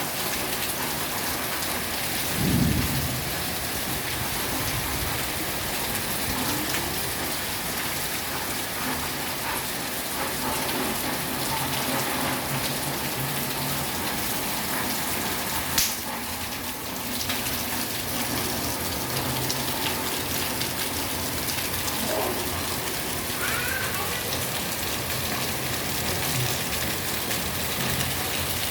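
Heavy rain from a summer storm, pouring steadily, with a brief low rumble about two and a half seconds in and a sharp click near the middle.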